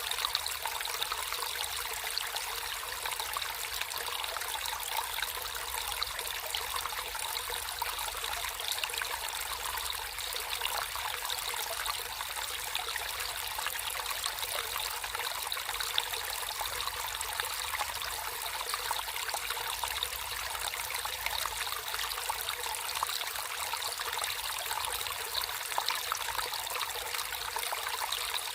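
Water flowing and trickling steadily in a small natural stream, an even bright splashing with fine flickers and no pauses.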